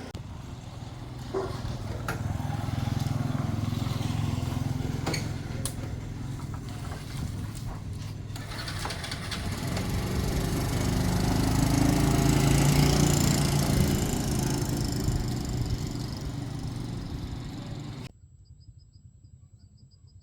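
A motor vehicle engine running steadily, growing louder to a peak about twelve seconds in and easing off, then cutting off abruptly near the end.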